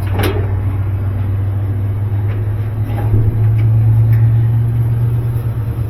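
A steady low mechanical hum that swells a little around the middle, with a few light clicks and knocks over it.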